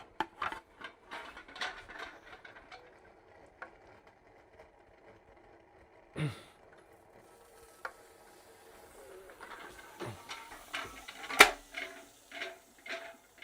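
Small model heat engine running, with irregular mechanical clicking and ticking as it turns while liquid nitrogen cools its top. There is a brief hiss about six seconds in, and one sharp click near the end is the loudest sound.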